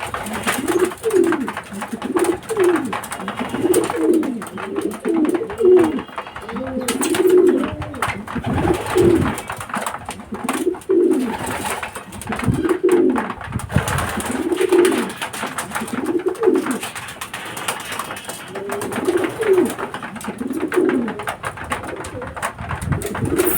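Several racing pigeons cooing, low swelling-and-falling coos about once a second, often overlapping, over a constant rustling noise.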